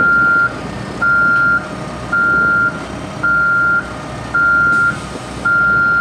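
A truck's reversing alarm beeping steadily, six single-pitched beeps about one a second, each lasting about half a second, over the low running of an engine.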